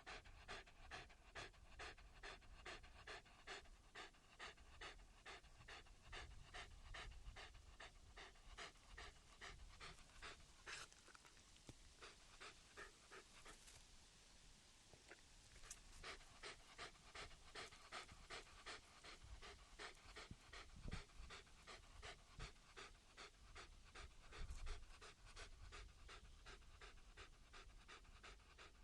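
A dog panting quietly and quickly, about three breaths a second, easing off for a few seconds near the middle before picking up again.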